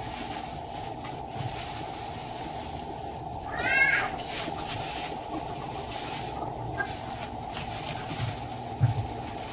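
A cat meows once, a short call about three and a half seconds in, over a steady low background hum.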